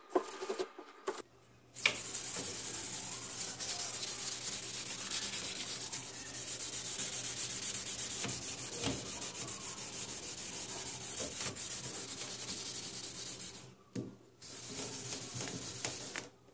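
A car grille being sanded: steady scraping that pauses briefly near the end, then carries on.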